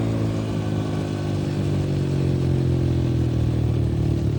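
Honda CRF110F dirt bike's small four-stroke single-cylinder engine running at part throttle while riding, holding a fairly steady speed with the pitch easing slowly down.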